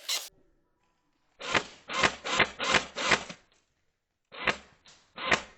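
Airsoft gun firing short full-auto bursts: about five rattling bursts in quick succession, a pause of about a second, then three more.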